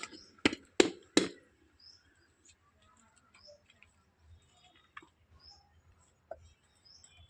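Three loud, sharp clicks in quick succession about half a second in, then scattered faint bird chirps.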